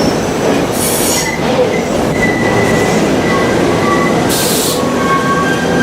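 Commuter train rolling through the station, a steady loud rumble of wheels on rail with thin high-pitched wheel squeal, and two short hisses about a second in and near the end.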